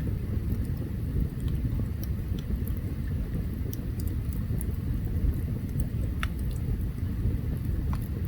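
Open campfire burning: a steady low rumble with scattered sharp crackles and pops from the burning wood, one louder pop about six seconds in.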